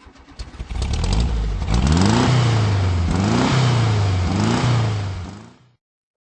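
Car engine revved three times, its pitch climbing and falling back with each blip, after a short burst of clicking at the start; it fades out near the end.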